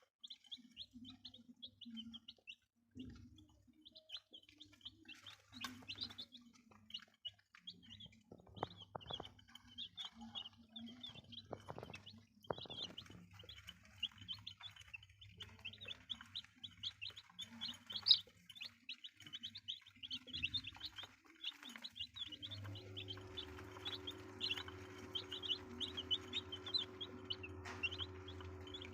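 A group of young chicks peeping without pause, a dense stream of short, high chirps. About three quarters of the way through, a steady low hum starts and carries on under the peeping.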